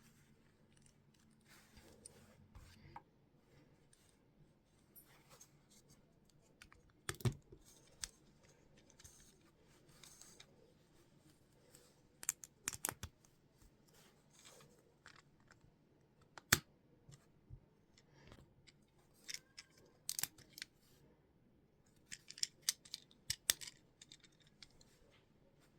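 Lego plastic pieces clicking and scraping as they are handled and pressed together, in scattered irregular bursts with a few sharper snaps.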